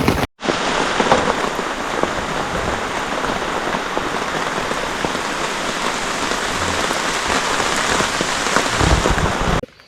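Rain falling steadily, an even hiss of drops that starts and stops abruptly at edits.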